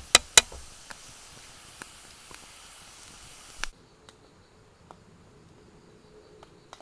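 Stew cooking over a campfire: a steady hiss with a few sharp pops and clicks near the start. The hiss cuts off suddenly about three and a half seconds in, leaving only a faint background.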